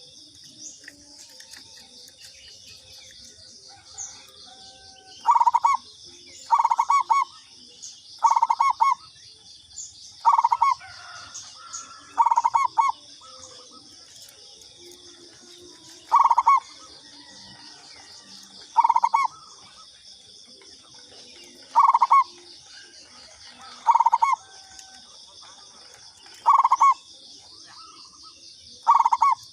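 Zebra dove (perkutut) cooing: about eleven short phrases of quick, rapid-fire coo notes, repeated every two to three seconds from about five seconds in. A steady high insect drone runs underneath.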